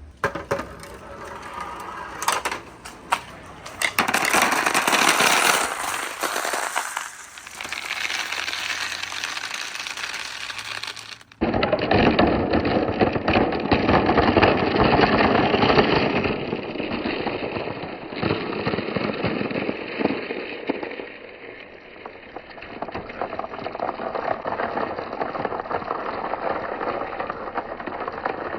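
Many marbles rolling and clattering down wooden marble-run tracks: a dense, uneven stream of rapid clicks and rattling. The sound changes abruptly about eleven seconds in, as a different run takes over.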